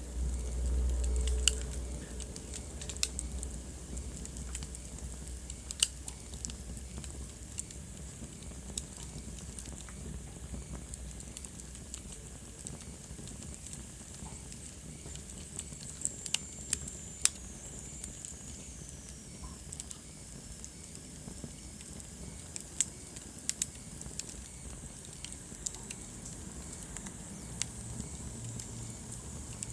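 Wood fire burning in a fireplace, crackling with irregular sharp pops over a steady low rumble. About halfway through there is a faint high whistle that falls in pitch.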